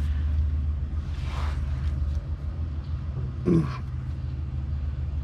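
A steady low hum, with a short strained grunt about three and a half seconds in while a ratchet is pulled on a tight oil drain plug.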